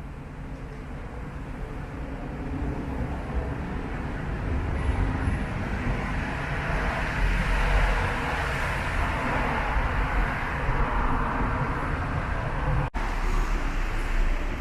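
Road traffic noise: a steady low rumble with a vehicle passing, swelling to its loudest around the middle and easing off, broken briefly near the end.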